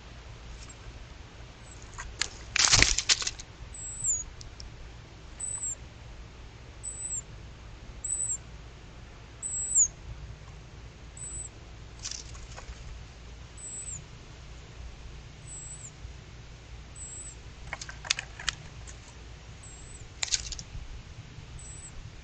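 Birds' wings flapping in a few short bursts, the loudest about three seconds in, with fainter flutters later. A faint, high, thin chirp repeats about once every second or so.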